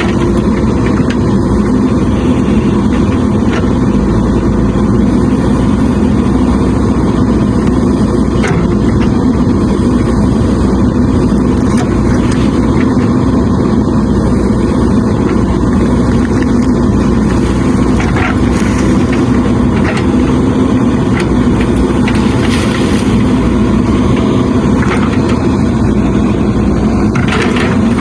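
JCB 3DX backhoe loader's diesel engine running steadily under work, with a few light clicks over it.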